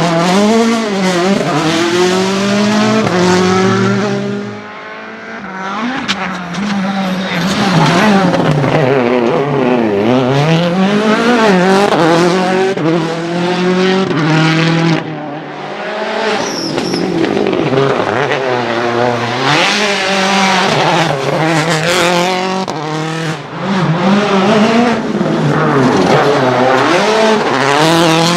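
Citroën C4 WRC rally car's turbocharged four-cylinder engine revving hard, its pitch climbing and dropping over and over as it is driven flat out through the gears and lifts between corners, with short drops in level a few times.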